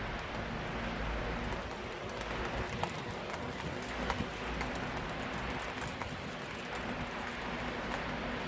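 Steady rain falling, with many small drips ticking and a few sharper ones about three and four seconds in, over a low rumble.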